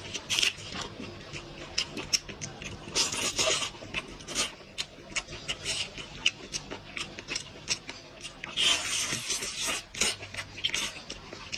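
Close-miked eating: wet chewing, smacking and sucking noises in short, irregular bursts as meat is eaten off the bone.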